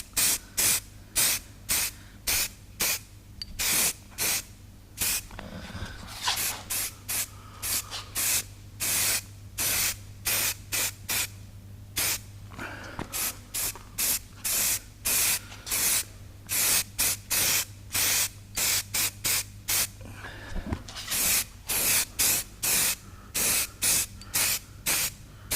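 Aerosol can of satin black spray paint hissing in many short bursts, about one to two a second, with a few brief pauses between passes.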